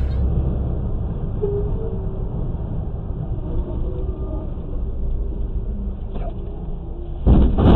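Steady low rumble of a moving car as picked up by a dashcam, becoming suddenly louder near the end.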